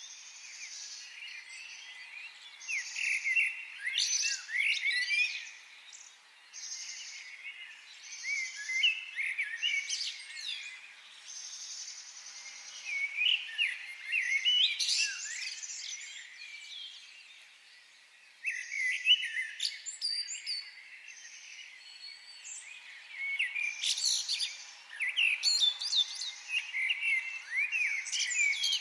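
Several wild birds singing, with quick rising and falling chirps and trills in bursts every few seconds. Behind them, a high buzzing call repeats about every second and a half.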